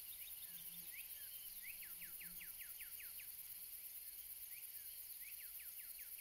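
Faint nature ambience: a bird sings two quick runs of descending chirps, about five a second, over a steady high hiss.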